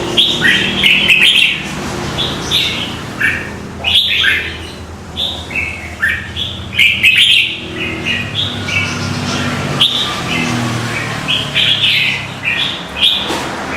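Small birds chirping in quick, irregular bursts, over a low hum.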